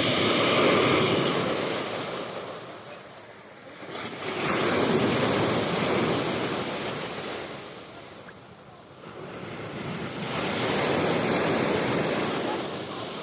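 Black Sea surf in a small storm: three waves breaking one after another, each swelling loud and then fading.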